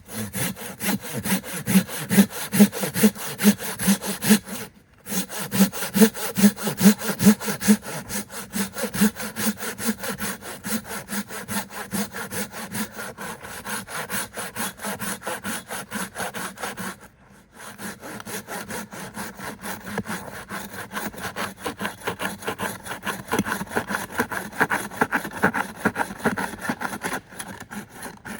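Hand saw cutting through wood with steady back-and-forth strokes, about two a second, pausing briefly twice before resuming.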